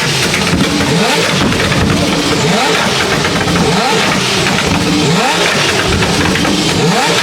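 Several performance car engines revving repeatedly, their pitch rising over and over and overlapping, loud throughout.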